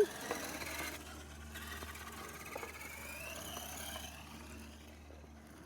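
Electric motor of a Traxxas Slash RC short course truck whining as it drives, the pitch rising for a couple of seconds before it fades away near the end.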